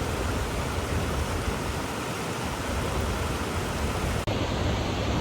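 Waterfall close by, a steady rush of falling water that breaks off for an instant about four seconds in and then goes on.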